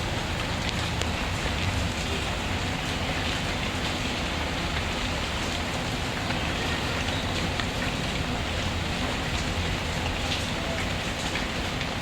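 Steady rain falling, mixed with a wood fire crackling, with scattered small pops through the steady hiss.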